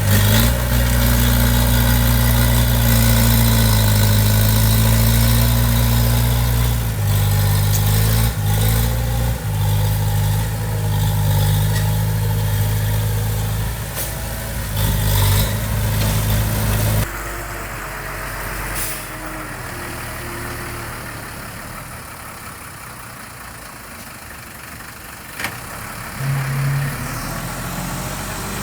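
Heavy diesel construction-machine engine running, loud and steady. About two-thirds of the way through it drops suddenly to a quieter engine sound, with a few sharp clanks.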